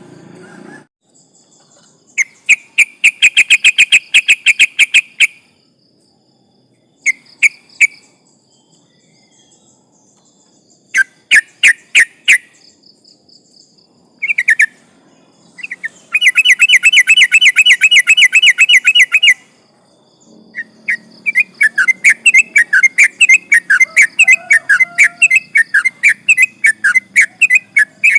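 Yellow-vented bulbul (trucukan) singing in fast trills of quickly repeated whistled notes, in several bursts of one to a few seconds. The densest trill comes about two-thirds of the way through, and a long trilled run goes on near the end.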